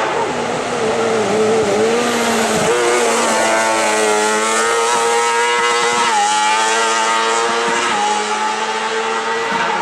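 Racing car engine running hard at high revs as a hill climb car drives the course, its pitch wavering at first, then holding fairly steady, with a brief dip about six seconds in.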